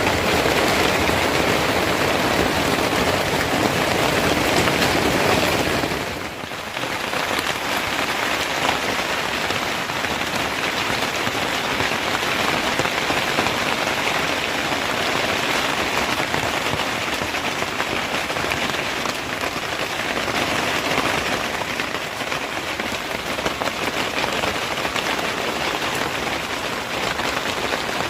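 Heavy rain falling steadily, a dense even patter that dips briefly about six seconds in.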